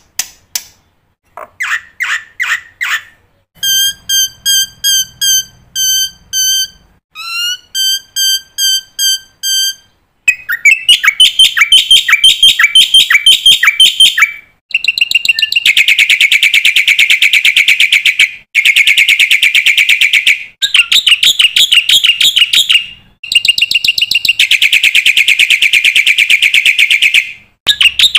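A black-winged myna (jalak putih) singing a song full of mimicked phrases. It gives a run of evenly spaced clear whistled notes, a rising note, and more whistles, then long runs of rapid, harsh chattering trills with brief pauses.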